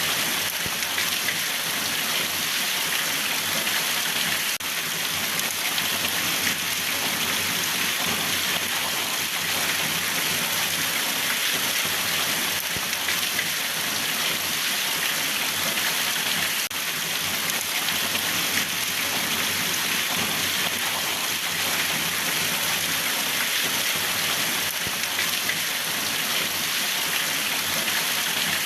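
Steady rain falling and pattering on a surface, an even hiss of many drops without a break.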